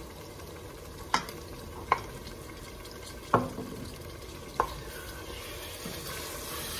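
Lamb ribs, onion and tomato sauce frying in a stainless steel pot with a steady sizzle while a metal spoon stirs. Four sharp knocks of the spoon and glass bottle against the pot, the loudest about midway.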